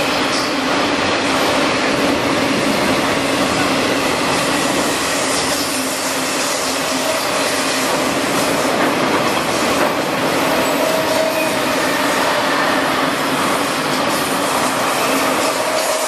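Freight train wagons rolling past on the rails, a loud, steady run of wheel-on-rail noise from the passing cars.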